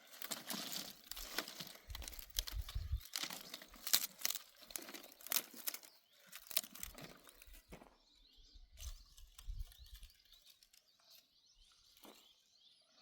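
Irregular rustling and crackling, like dry material being handled or torn, busiest in the first half and sparser later, with a brief low rumble twice.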